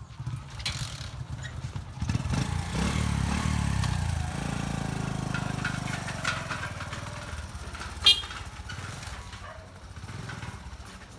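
Motorcycle trike engine running, getting louder about two seconds in and then fading as it pulls away. A single short sharp knock comes near the end.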